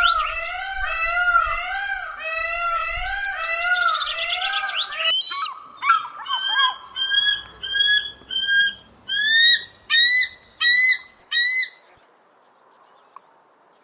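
Bird calling: a fast run of arching, whistled notes for about five seconds, then a series of about ten short, rising chirps.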